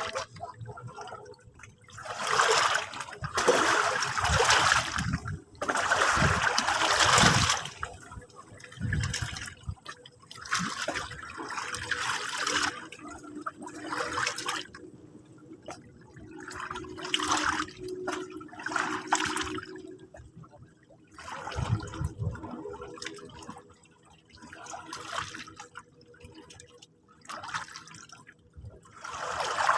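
Sea water washing and splashing in irregular surges, each a second or two long, with short lulls between.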